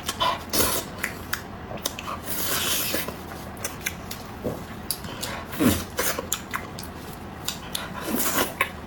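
Close-up eating sounds: wet chewing with many sharp lip-smacking clicks, and a longer rasping stretch about two seconds in, as a mouthful of rich, fatty meat is eaten.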